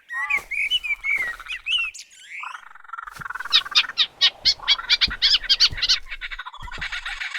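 Birds calling: warbling chirps at first, then a fast run of sharp repeated notes, about five a second, and a higher trill near the end.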